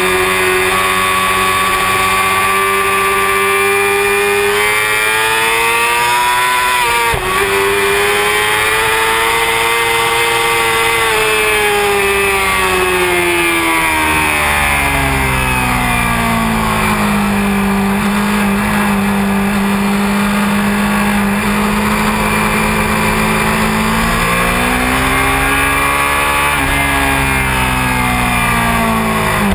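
Honda CBR600F4i's inline-four engine running hard at high revs around a race track. Its pitch climbs and falls with the throttle and gear changes. There is a short break in the note about seven seconds in, then a long drop to a lower, steady note in the middle, and another rise and fall near the end.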